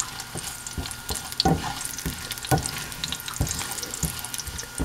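Sliced ginger sizzling and crackling in hot oil in a wok. A spatula scrapes and knocks against the pan now and then as it is stirred.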